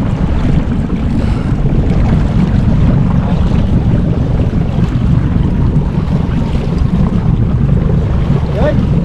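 Steady low rumble of a fishing boat under way at trolling speed, mixed with wind buffeting the microphone and water along the hull.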